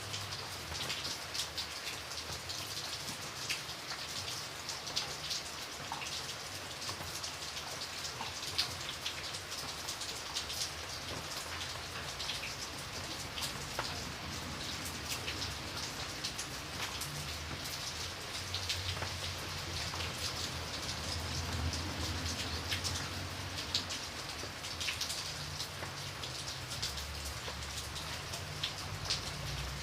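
Steady rainfall, dense drops pattering on a hard surface with a low rumble underneath that swells now and then.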